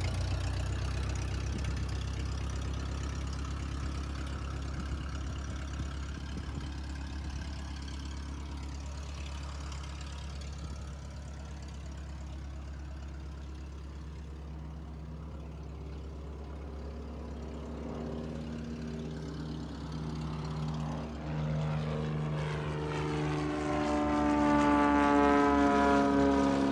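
Single-engine propeller plane running, a steady low drone from the engine and propeller; near the end its note shifts and it grows louder.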